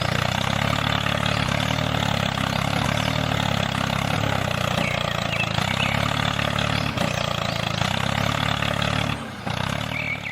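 A mini tractor's motor running steadily at an even pitch, dropping away about nine seconds in.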